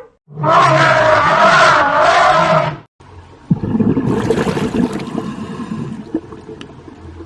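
A loud animal call lasting about two and a half seconds, with a low pulsing underneath. After a short break, a rougher, noisier sound starts abruptly and slowly fades away.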